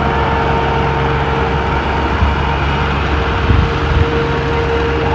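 Tractor diesel engines running steadily at high revs, with a steady whine over the engine note and a couple of brief knocks.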